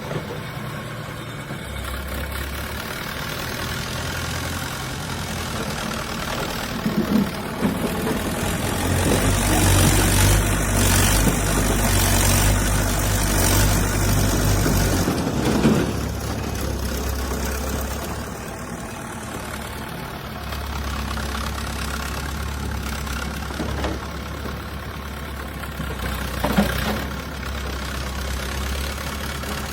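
Diesel engine of heavy construction machinery running, working harder and louder for several seconds in the middle before settling back, with a few short clunks.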